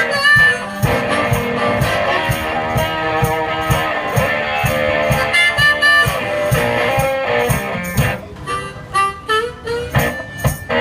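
One-man band playing blues: harmonica over guitar, with a steady low beat. The harmonica's held chords thin to separate notes about eight seconds in.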